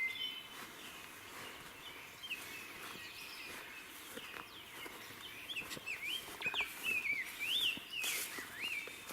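Songbirds singing, a run of short whistled notes that rise and fall quickly, over the crunch and rustle of footsteps through brush and weeds, which gets busier near the end.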